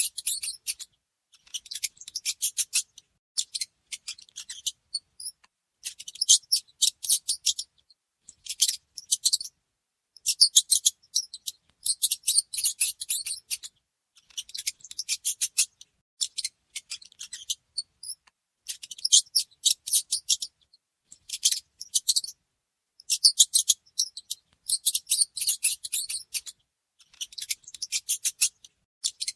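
High-pitched mouse chittering: bursts of rapid, clicky squeaks about a second long, repeating every second or two.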